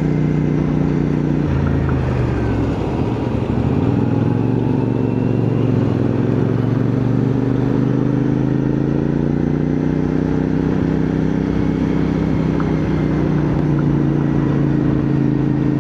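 CFMoto 450NK's parallel-twin engine running under way, with wind rush. The engine note drops about a second and a half in, then climbs slowly back and holds steady.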